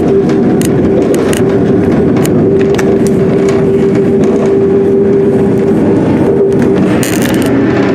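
Running noise of a passenger train heard from on board while it is moving: a steady loud rumble with a steady whine running through it and scattered clicks.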